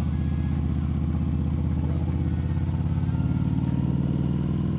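Harley-Davidson Street Rod 750's liquid-cooled V-twin engine running steadily while the motorcycle cruises along, the engine note holding even throughout.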